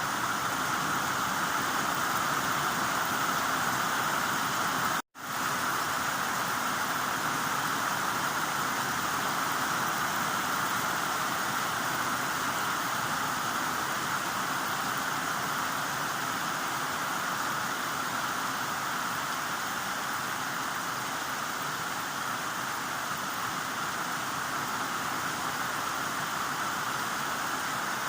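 Heavy rain falling as a steady, even hiss. It cuts out for an instant about five seconds in, then resumes unchanged.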